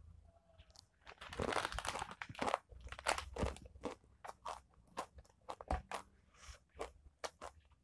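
Close-up mouth sounds of someone chewing a mouthful of Mister Potato ghost pepper potato crisps. It starts about a second in with a dense burst of crunching, then settles into separate crunches a couple of times a second.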